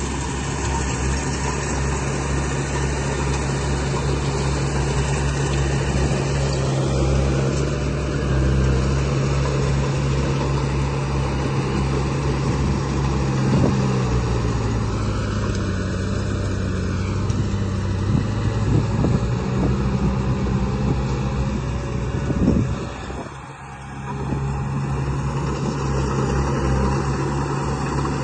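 Remote-control model construction vehicle running with a steady engine-like hum. Its pitch drops about halfway through and picks back up, and it briefly dips in loudness near the end.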